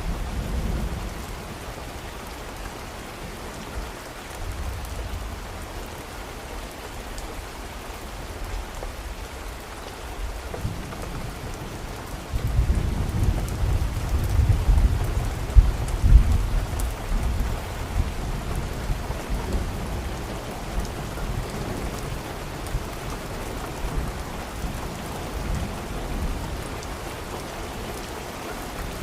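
Steady rain falling, with a long low roll of thunder that builds about twelve seconds in, swells for several seconds and slowly fades away.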